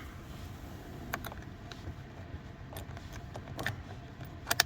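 Scattered sharp clicks and taps of plastic trim or parts being handled and fitted by hand, with a double click near the end, over a steady low hum.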